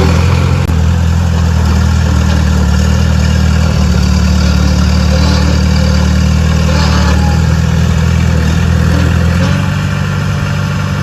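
Loud, steady running of a heavy machine's diesel engine, with a low, even hum that eases slightly about nine seconds in.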